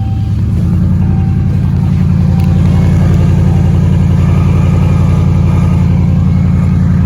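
2003 Toyota Tundra's 4.7 V8 running at its raised cold-start idle, steady and even, stepping up slightly about half a second in. A short beeping tone repeats irregularly during the first few seconds.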